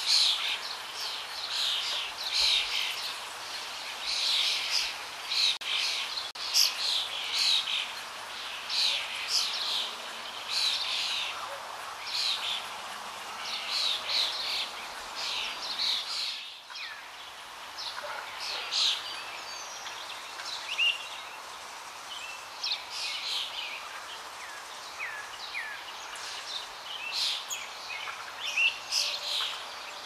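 Several birds chirping and calling in quick, overlapping short notes over a steady background hiss. After a brief break about halfway through, the calls are sparser, with a few quick falling whistles.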